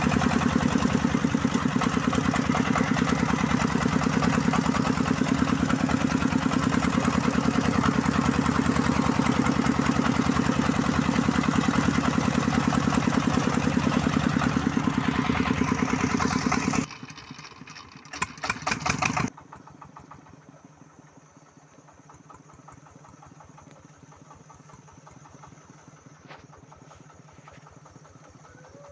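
Công nông farm vehicle's single-cylinder diesel engine running with a steady chugging beat. About two-thirds of the way through it drops off sharply, comes back loud for a second or two, then carries on much quieter.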